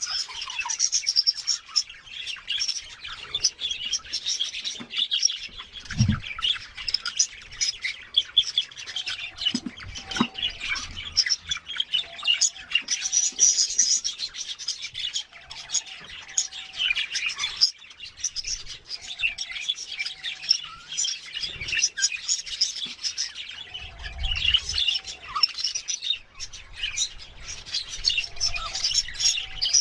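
Budgerigars chattering and chirping continuously, many quick high chirps overlapping, with a couple of low thumps.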